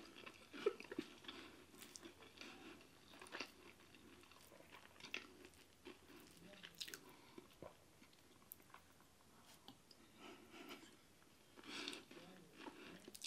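Faint close-up chewing of injera, stews and rice, eaten by hand, with scattered soft wet mouth smacks and small clicks.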